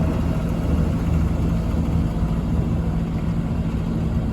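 Steady low drone of a river motor ship's diesel engines, a constant hum with a throbbing undertone and an even rushing noise over it.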